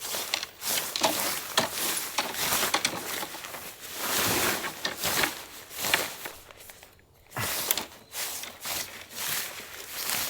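Handling noises: irregular rustling and rubbing with many small clicks and knocks.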